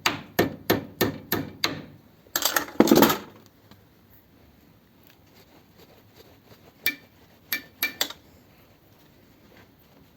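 A run of sharp knocks, about four a second, then a short scrape, and after a pause four more knocks: an old fitting on a car vacuum line being knocked and worked to get it off the pipe.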